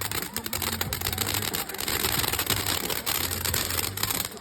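Fireworks crackling: a dense, irregular run of sharp pops and snaps.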